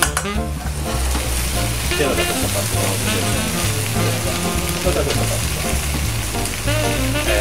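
Steady sizzle of food frying in hot pans: spinach cooking in olive oil in a stainless sauté pan and bread slices toasting on a ridged griddle.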